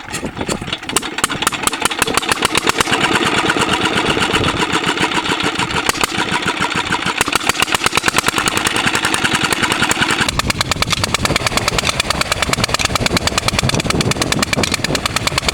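Old engine starting and then running with an even, rapid firing beat that builds up over the first couple of seconds. About ten seconds in, the sound loses its upper clatter and turns deeper.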